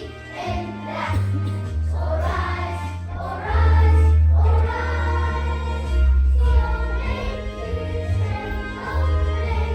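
A children's choir singing a song from the musical over a backing track, with a strong bass line that moves in steps from note to note.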